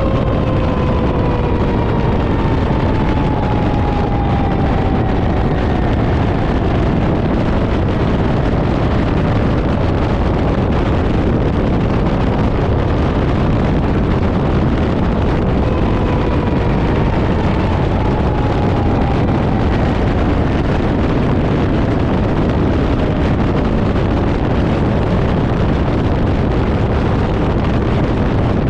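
Fire engine under way, with loud, steady engine, road and wind noise. A siren's wail falls slowly in pitch and fades at the start, and again about 16 seconds in.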